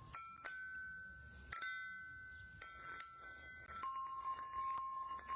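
Lithophone: tuned stones struck one after another, each giving a clear ringing note that sustains and overlaps the next. A new note sounds about every second, and a lower note rings on from about four seconds in.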